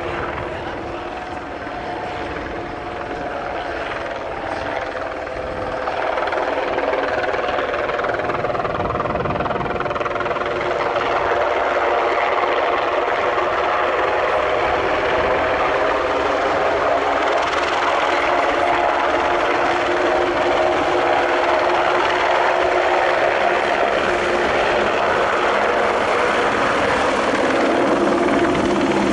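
Aircraft engine running steadily at close range, a mix of several steady tones over a broad rush. It grows louder about six seconds in and then holds.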